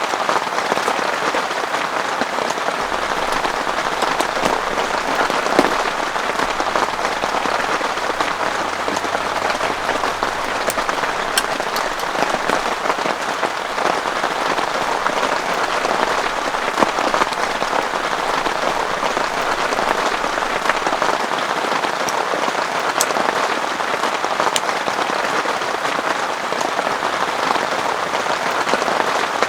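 Heavy rain falling steadily, a dense even patter with scattered sharper drop hits.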